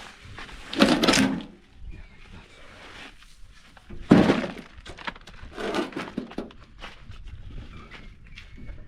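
Heavy loads of ballast (crushed stone) being dropped and set down: a few short thuds with a stony clatter, the loudest about four seconds in.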